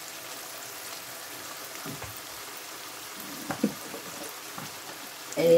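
Onion, garlic and tomato masala sizzling steadily in hot oil in a nonstick frying pan.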